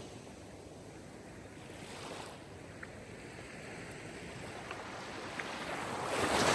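Light sea waves washing in: an even surf rush that swells once slightly and then rises to its loudest near the end as a wave comes in.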